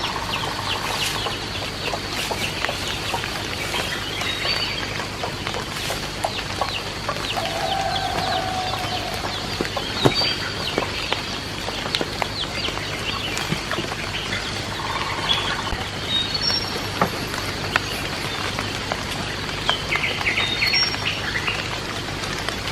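Chickens clucking, with small birds chirping now and then over a steady hiss.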